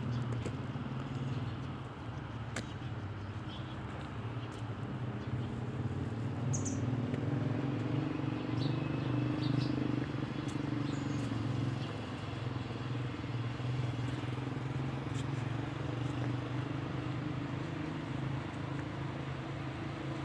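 Outdoor ambience: a steady low rumble that swells a little in the middle, with a few short, faint high chirps over it.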